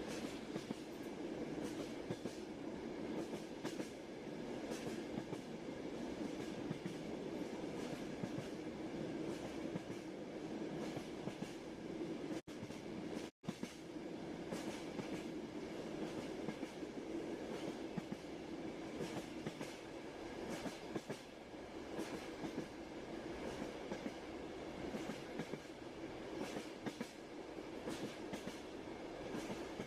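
Railway carriage running steadily, its wheels clattering over the rail joints over a constant low rumble. The sound cuts out twice, briefly, about halfway through.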